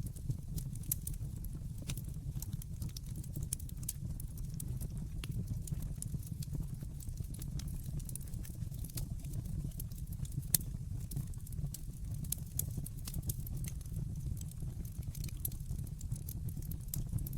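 Wood fire crackling in a fireplace: frequent small, sharp pops over a steady low rumble, with one louder pop about ten seconds in.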